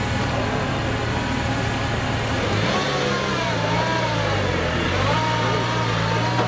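Engine of an off-road competition 4x4 running and revving, getting louder about halfway through.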